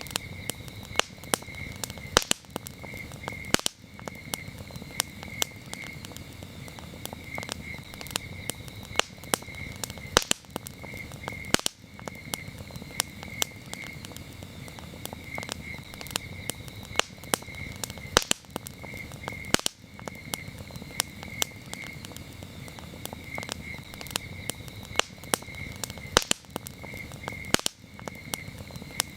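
Wood campfire crackling, with frequent sharp pops and snaps over a low steady hiss, while crickets chirp steadily in a high pulsing trill.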